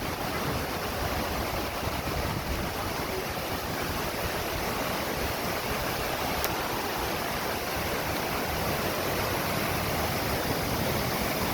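Waterfall: water falling and splashing in a steady, even rush, with one faint click about six and a half seconds in.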